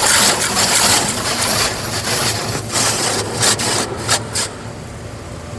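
Car wash spray arch spraying ceramic coating onto the car, a loud steady hiss with a few sharp splashes, which stops about four and a half seconds in.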